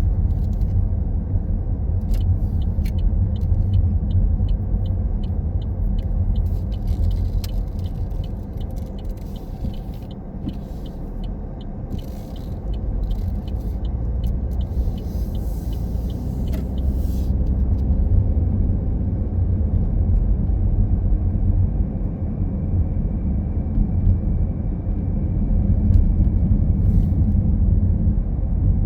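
Car driving on a road: a steady low rumble of engine and road noise. For a stretch in the middle there is a regular light ticking, about two or three ticks a second.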